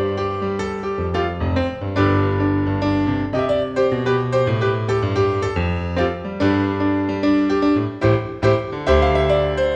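Piano playing: chords under a melody of struck notes that ring and fade, several notes a second.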